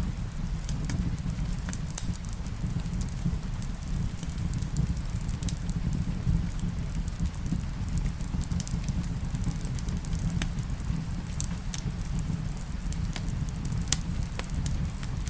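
Fireplace crackling, with sharp pops at irregular intervals over a steady low rumble, and rain in the background.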